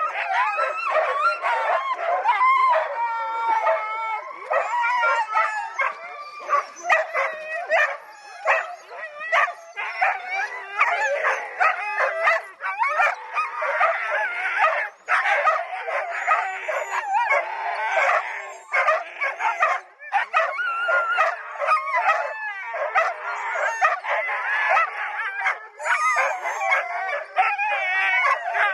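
A team of sled dogs barking, howling and yipping together in a continuous, overlapping chorus.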